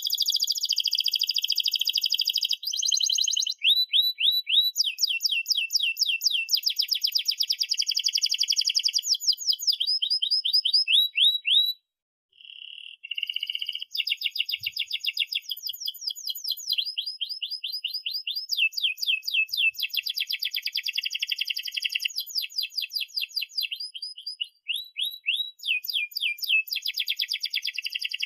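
Domestic canary singing a long, continuous song of fast trills and rolls of repeated sweeping notes, with one short break about twelve seconds in.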